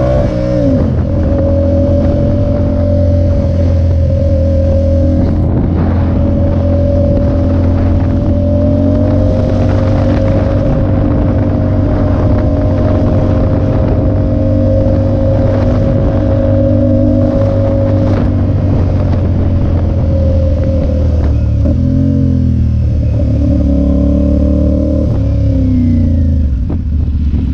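Motorcycle engine under way. The revs climb at the start, hold steady for most of the time, then drop and pick up again a few times and fall away near the end.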